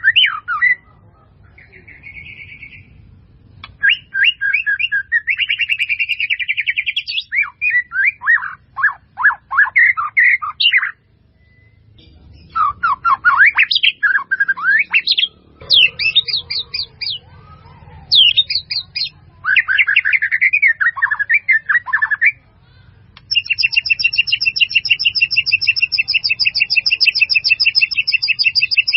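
A bird singing in bursts of chirps, warbling phrases and fast trills, ending in a long rapid rattling trill.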